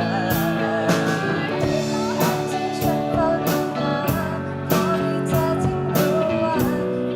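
Live pop band playing an instrumental passage: sustained guitar chords and a bending lead line over a steady drum beat with regular cymbal and snare hits.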